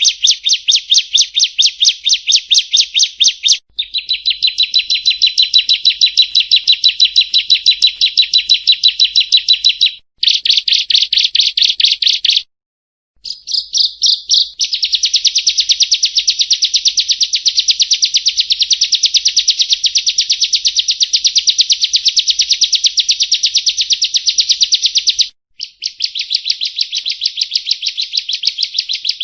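Prinia (perenjak) calling: long runs of rapid, evenly repeated high-pitched chips, broken by a few short gaps, the longest a little under halfway through. A call recording of the kind played as a lure for prinias.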